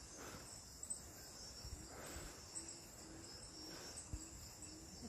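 Steady high-pitched chorus of tropical rainforest insects such as crickets, with faint low notes repeating in the second half.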